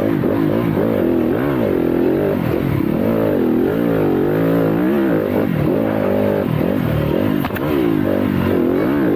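Yamaha YZ250FX single-cylinder four-stroke dirt bike engine revving up and down as the bike is ridden hard, the pitch rising and falling every second or so with throttle and gear changes.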